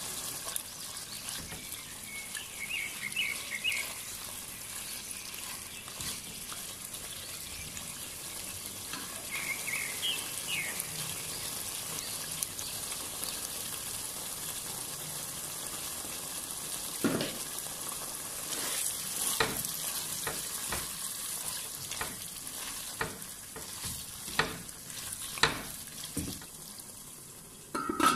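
Chicken curry sizzling in a non-stick pan with a steady hiss. In the second half a utensil knocks against the pan again and again as the gravy is stirred.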